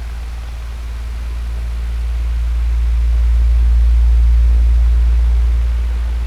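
Electric fan running with a steady whooshing noise over a low motor hum, growing louder toward the middle and easing off again near the end.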